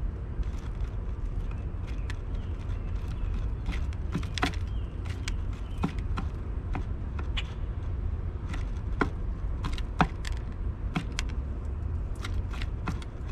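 Irregular sharp taps and clicks of a bird's beak pecking and tossing seed on a birdfeeder seed tray, over a steady low rumble.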